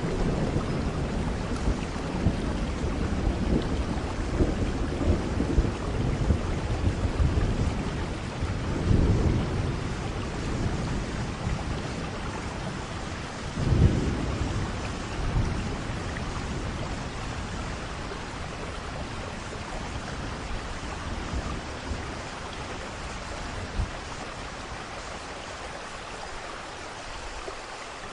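Thunderstorm: steady rain hiss with rolling rumbles of thunder. The thunder swells about a third of the way in and again near the middle, then dies away into rain alone near the end.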